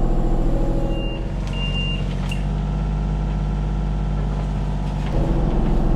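Kubota U35-4 mini excavator's three-cylinder diesel engine running steadily, its note dipping briefly about a second in and picking up under load near the end. Two short high beeps sound between one and two seconds in.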